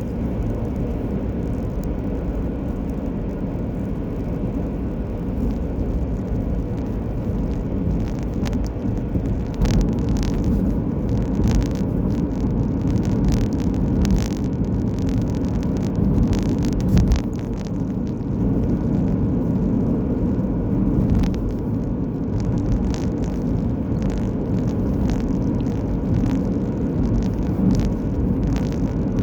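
Road noise of a car driving: a steady low rumble of tyres and engine, with frequent small clicks and rattles over it.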